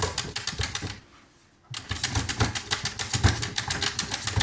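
Pet fox making a rapid, rhythmic clicking, breathy sound at about eight to ten pulses a second. It stops about a second in and starts again after a short pause.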